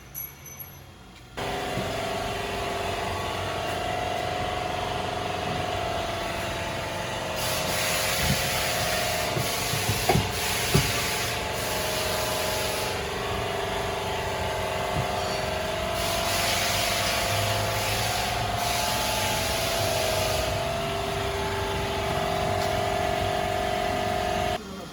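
A power cutting tool running with a steady whine while it cuts through the steel exhaust pipe for a muffler and resonator delete. Hiss rises over it in two long stretches, and there are a few sharp clicks partway through.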